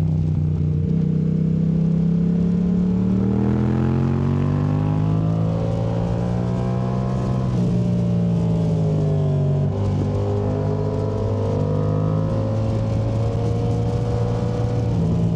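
Yamaha MT-07's parallel-twin engine through a Yoshimura AT2 Race exhaust, running under load. Its pitch rises and falls repeatedly as the throttle is rolled on and off, with a brief dip about ten seconds in.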